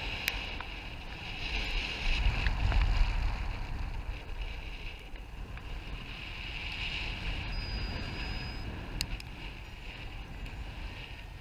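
Wind rushing over the microphone in gusts, strongest about two to three seconds in, with a few faint clicks.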